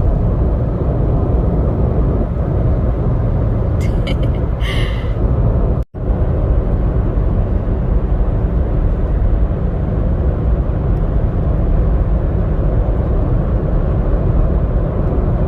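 Steady road and engine rumble inside a moving car, cutting out for an instant about six seconds in.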